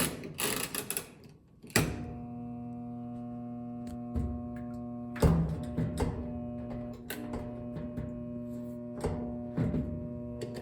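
A few clicks and knocks of the washer's controls being handled, then, about two seconds in, the Frigidaire washing machine's motor starts a steady electrical hum at one unchanging pitch, with several knocks over it.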